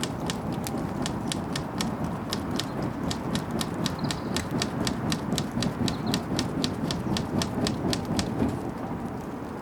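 Wood bonfire crackling, with irregular sharp pops several times a second over a steady low rushing sound of the flames. A bird chirps briefly a few times.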